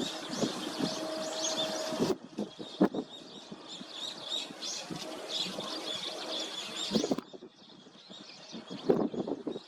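A flock of Eurasian tree sparrows chirping continuously in many overlapping short, high notes, with gusts of wind buffeting the microphone in low, irregular thumps.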